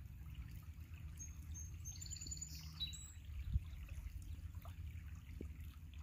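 A bird gives a short run of quick, high chirps between about one and three seconds in, over a steady low background rumble. A single soft thump comes about three and a half seconds in.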